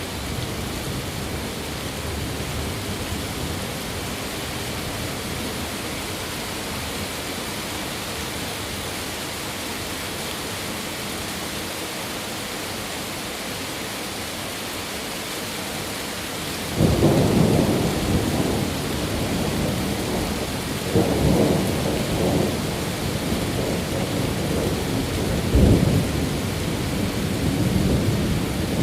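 Steady rain hiss. Somewhat past halfway, a rolling thunder rumble sets in suddenly and keeps going, swelling louder twice.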